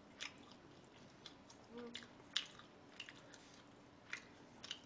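Close-miked eating sounds: wet chewing with scattered mouth clicks and lip smacks, and a brief closed-mouth hum about two seconds in.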